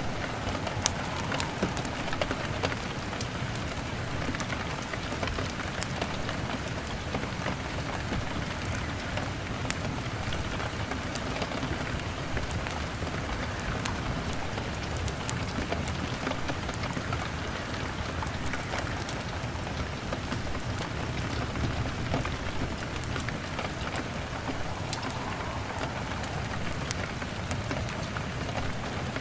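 Steady rain hitting a window pane, an even hiss, with scattered sharp crackles of a log fire throughout.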